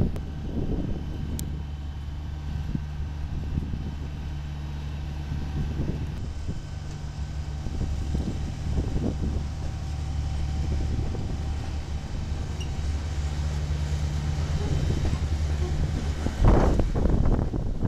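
CSX freight train rolling slowly past, its diesel locomotive giving a steady low drone under the rumble of the cars. A louder burst of wind on the microphone comes near the end.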